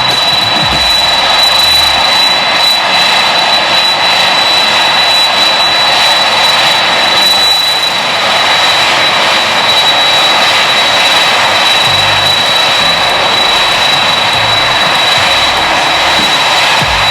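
Jet airliner engines running loudly and steadily: an even rush of noise with one high, steady whine on top.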